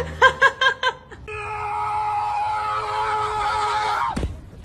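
A high voice laughs in about five quick bursts, then lets out one long, steady, high scream lasting nearly three seconds that drops off at the end.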